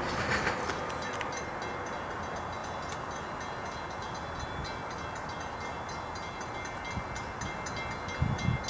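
SEPTA Silverliner V electric multiple-unit train approaching in the distance, a steady rumble with faint, flickering high tones above it. A few low bumps come near the end.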